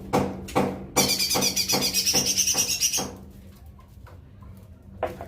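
A cucak ijo mini (leafbird) calling and singing: sharp repeated notes about two a second, then about a second in a fast, high twittering burst lasting some two seconds, then quieter with a single sharp note near the end.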